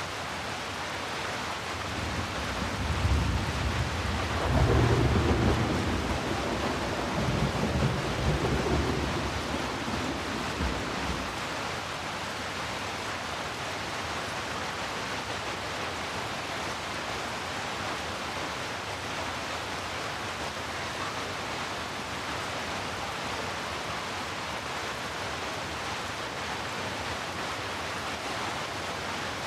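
Steady rain hiss, with a roll of thunder that rumbles up about two seconds in, swells twice and dies away by about eleven seconds.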